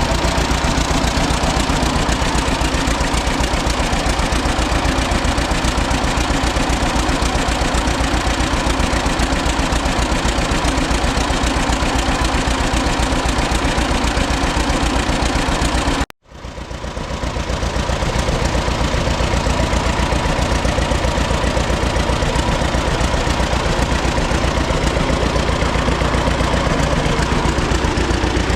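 1936 John Deere Model A two-cylinder engine running at a steady idle, its firing beat even and unchanging. The sound cuts out for an instant about two-thirds of the way through and fades back in.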